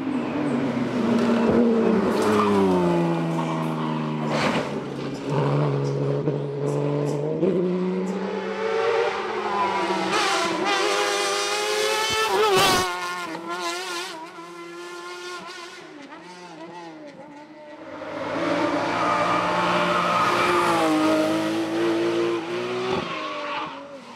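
Race car engine revving hard as it accelerates up a hillclimb course, the pitch climbing and dropping back with each gear change. It is loudest about halfway, fades, then rises again through several more shifts before cutting off near the end.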